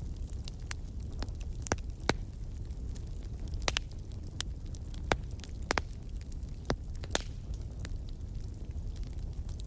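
Wood fire burning: a steady low rumble of the flames with sharp crackles and pops from the burning wood, scattered irregularly.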